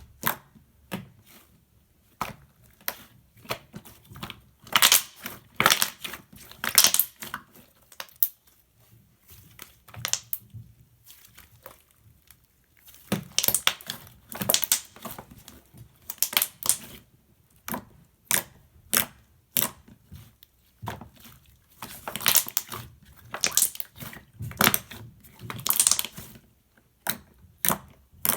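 Slime being squeezed and pressed by hand, making irregular crackling pops and clicks in clusters with short quiet pauses between.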